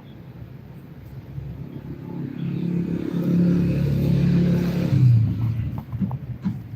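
A motor vehicle passing: its engine hum builds, is loudest in the middle, drops in pitch about five seconds in and fades away.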